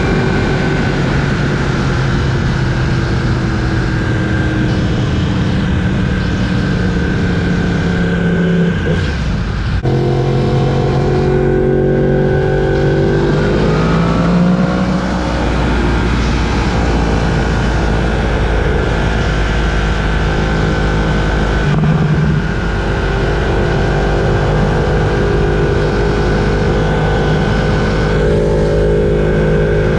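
Yamaha R1's crossplane inline-four engine running under way. Its note holds steady, breaks off briefly about nine seconds in, then climbs in pitch as it revs up, with another short dip a little past two-thirds of the way through.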